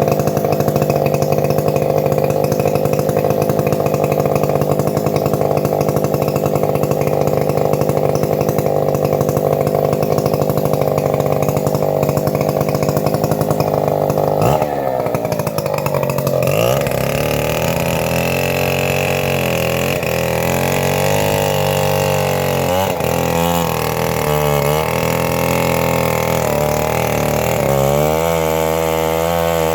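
Two-stroke chainsaw working on a teak tree. It runs at steady high revs, then about halfway through the engine speed drops. After that it keeps rising and falling as it works, and climbs again near the end.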